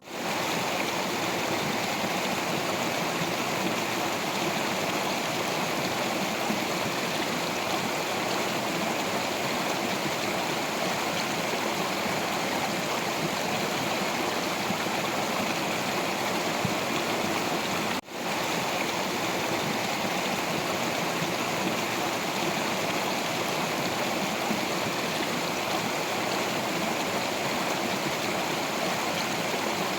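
Stream water flowing over rocks: a steady rushing and gurgling, briefly cutting out and fading back about eighteen seconds in.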